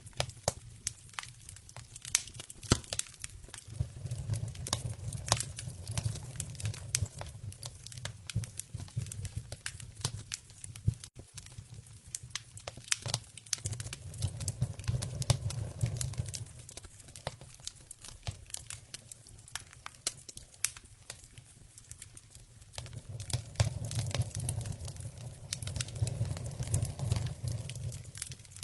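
Campfire crackling, with irregular sharp pops and snaps throughout and a low rumble that swells and fades several times.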